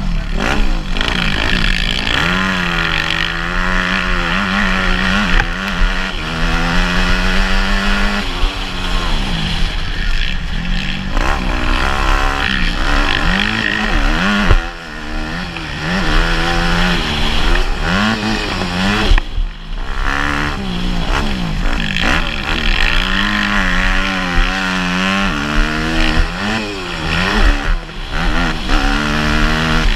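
Motocross bike engine revving hard, its pitch climbing and dropping over and over as the throttle is opened and shut, with the engine briefly falling away about halfway through and again about two-thirds through.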